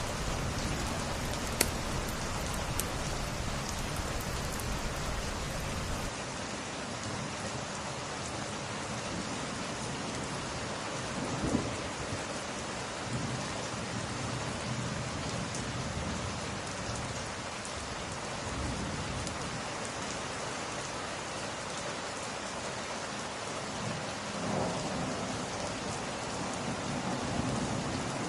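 Steady, heavy rain in a rain-and-fireplace ambience, with a few sharp crackles of the wood fire in the first three seconds. Low rolling rumbles swell up about eleven seconds in, several times in the middle stretch, and again near the end.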